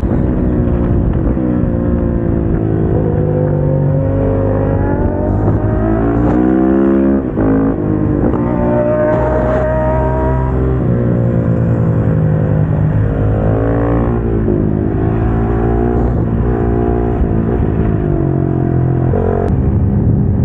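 KTM 690 SMC-R's single-cylinder engine heard onboard on track, revving up and down again and again as the bike accelerates and slows through the gears.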